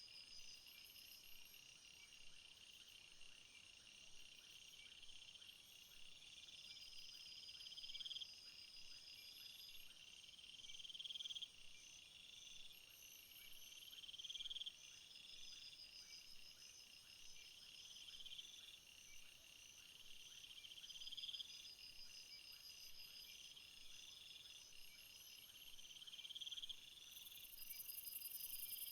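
Chorus of insects chirring in several steady, high trills. One buzzy call swells in loudness and cuts off sharply about every three seconds.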